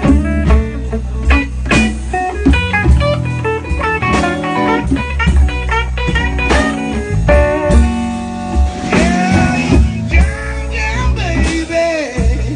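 Live band playing a slow blues in the key of B: a lead guitar plays single-note lines over bass and drums, with wavering bent notes in the last few seconds.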